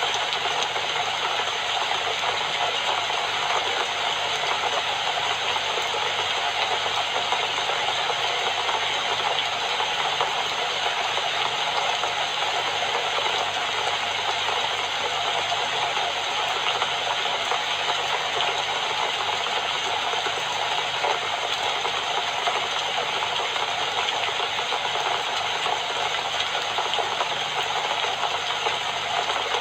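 Steady, even rain, a dense hiss of drops that keeps the same level throughout.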